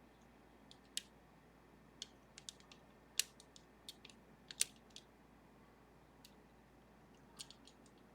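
Small metal clicks and ticks at irregular intervals, a few louder ones near the middle: lock-picking tools working the serrated levers of a Sargent and Greenleaf 4440 series safety deposit box lever lock.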